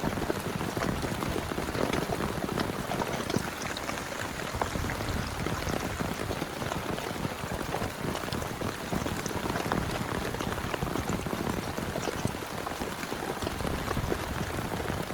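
Heavy rain falling steadily, a dense patter of individual drops hitting a surface.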